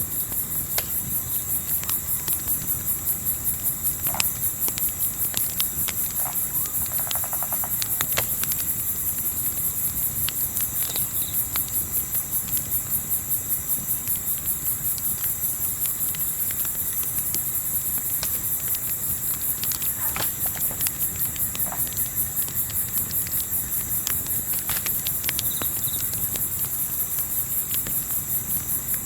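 Crickets chirping, high-pitched and very regular at about three pulses a second, over a low rumble, with occasional sharp snaps and crackles from a campfire.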